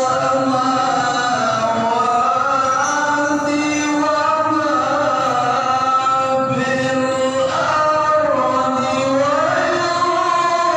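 Male qori reciting the Quran in the melodic tilawah style, with long held notes ornamented by sliding, wavering pitch, amplified through a Toa horn-loudspeaker sound system.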